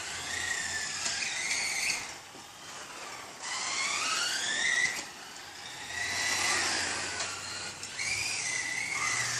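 1/10-scale F1 RC race cars' motors whining, the pitch rising and falling over and over as the cars speed up and slow down around the track, with a quieter lull about two seconds in.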